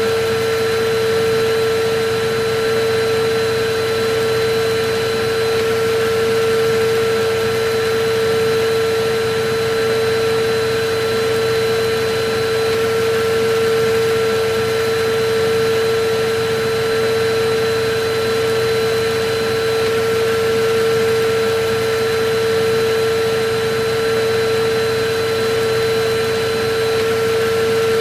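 Electric vacuum cleaner running steadily: an even rush of air with a constant mid-pitched motor whine and fainter higher tones above it, unchanging throughout.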